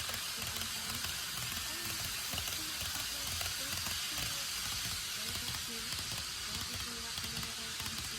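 KATO N-gauge Taiwan 700T Shinkansen model train running on track: a steady whirring hiss from the motor and wheels with a low rumble underneath.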